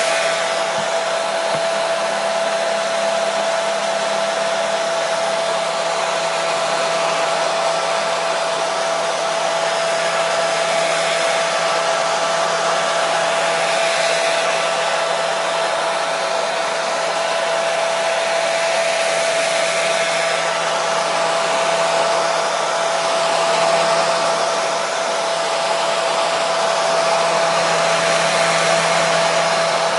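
Hair dryer running continuously: a steady rush of blown air with a constant motor whine. Played as steady white noise to calm and lull a baby to sleep.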